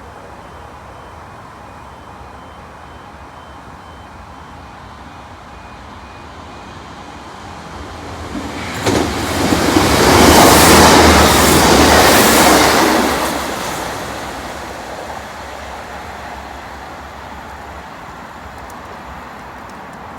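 A train passing at speed: the noise builds over a few seconds, stays loud for about four seconds, then fades away.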